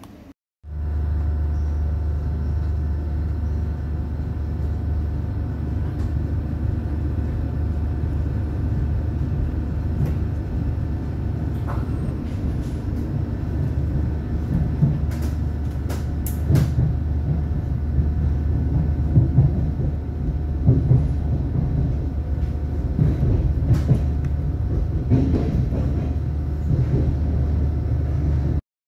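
Thameslink Class 700 electric train heard from inside the carriage while running: a steady low rumble and hum, with a few sharp clicks and rattles now and then.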